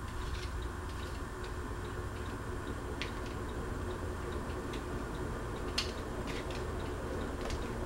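Fanimation ceiling fan running on medium: a steady low hum with scattered light ticks at uneven intervals.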